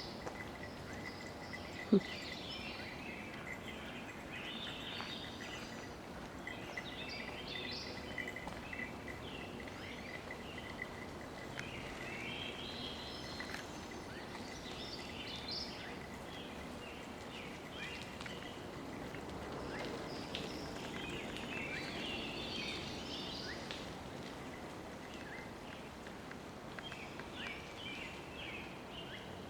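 Songbirds singing in woodland, many short chirps and trills overlapping over a steady background hiss. A thin steady high tone runs through the first ten seconds or so, and a single sharp knock comes about two seconds in.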